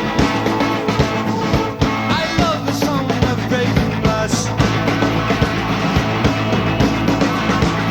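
Live rock band playing, with electric guitars, bass guitar and drums keeping a steady beat.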